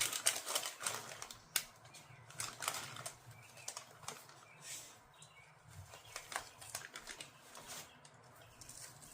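Hand-handling noise: quick rustles and clicks as material and parts are worked by hand, dense for the first few seconds, then sparser, scattered clicks.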